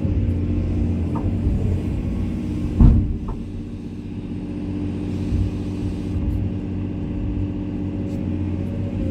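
Komatsu excavator's diesel engine running steadily under work, with one loud thump about three seconds in.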